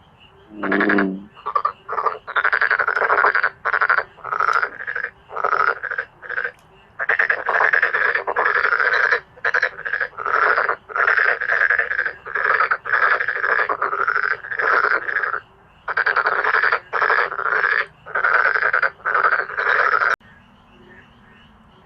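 Male dark-spotted frogs calling in a chorus: a long string of loud, pulsed croaks, one bout after another with short gaps. The chorus stops abruptly about two seconds before the end.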